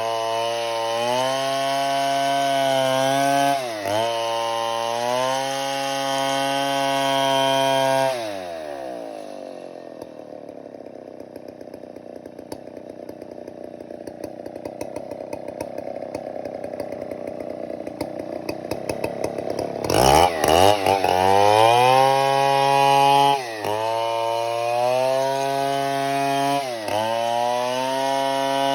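Stihl 070 two-stroke chainsaw running at high revs with brief dips in pitch. About eight seconds in it drops to a low, uneven idle, then revs up sharply about twenty seconds in and runs high again with a few more quick dips.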